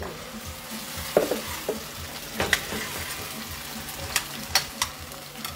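Chopped onions sizzling in a stainless steel frying pan as they are stirred to sauté, a steady hiss broken by several sharp scrapes and taps of the utensil against the pan.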